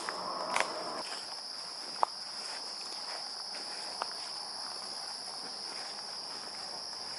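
A steady, high-pitched insect chorus, like crickets trilling, with a few footsteps through brush in the first second.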